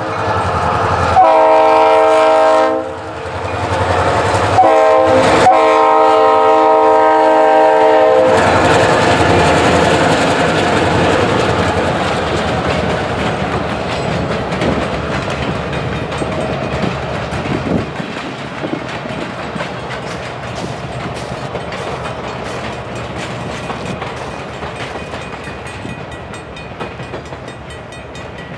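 Locomotive air horn blowing a long blast, a short one and a final long one held about three seconds: the grade-crossing signal. The train then rolls over the crossing, its wheels clacking on the rail joints, the rumble slowly fading away.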